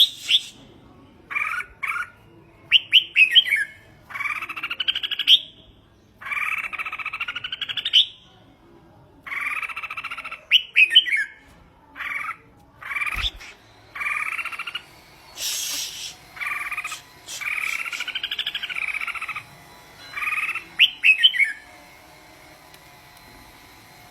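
Red-whiskered bulbul singing in short, separate phrases with brief pauses between them. Quick chirpy notes alternate with longer warbled phrases.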